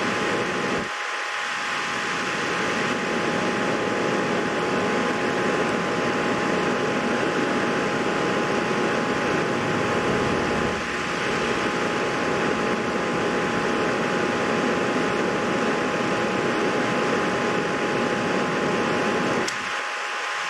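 Steady fan-like whooshing with a faint steady hum, dipping briefly about a second in and again near the end.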